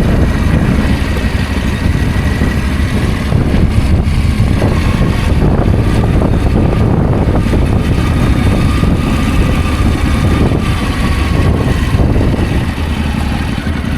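Adventure motorcycle's engine running steadily as it is ridden, with a dense low rumble throughout.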